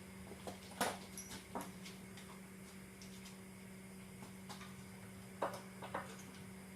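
Scattered sharp clicks and knocks over a steady low hum, one louder knock about a second in and two more close together near the end.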